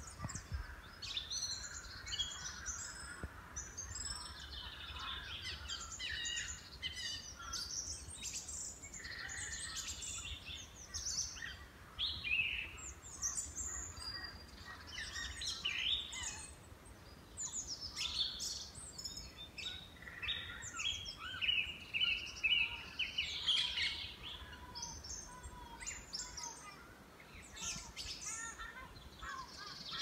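Wild birds of several species calling and singing at once: a dense, overlapping mix of short chirps, trills and whistles, over a low steady background rumble.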